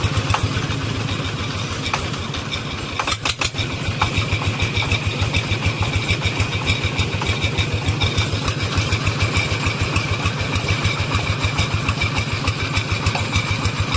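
Single-cylinder diesel engine of a công nông two-wheel farm tractor running with a fast, even chugging beat; about three seconds in it briefly dips, with a few sharp knocks, before the beat carries on.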